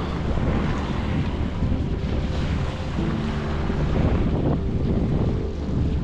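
Wind buffeting the microphone, over choppy sea water sloshing and splashing around a kayak.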